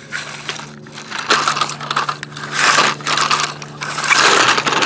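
Dirt and small stones scraping, crunching and pouring as toy construction trucks dig and dump it, in several loud gritty spells starting about a second in.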